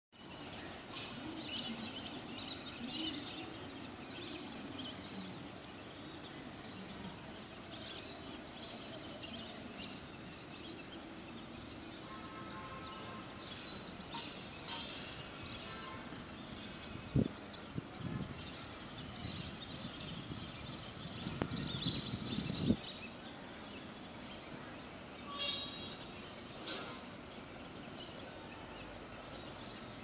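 Birds calling around a lake where a large flock of ducks sits on the water: scattered short high chirps and whistles over a steady outdoor background. A few brief dull thumps in the second half, the loudest a sharp knock a little before the end.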